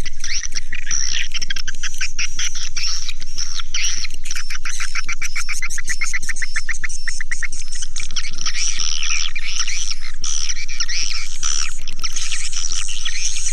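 Swiftlet lure call of edible-nest swiftlets: dense, high chirping and twittering without pause, with a quick run of evenly spaced short chirps in the middle.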